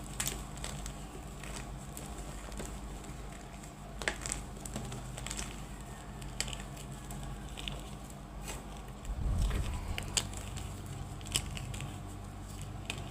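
Reformed gym chalk being crushed, with irregular crisp crunches and crackles as the pressed chalk crumbles, and a duller crunch about nine seconds in.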